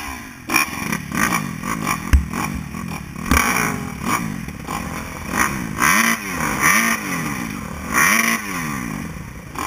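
Motocross bikes' engines revving, the pitch rising and falling over and over in quick blips, with more than one engine heard at once. A couple of short knocks come about two and three seconds in.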